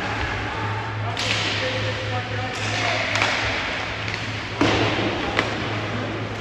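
Ice hockey play in an arena: skate blades scraping hard on the ice three times, about a second in, midway, and loudest near the end with a thud, with a few sharp clacks of sticks and puck over a steady low hum.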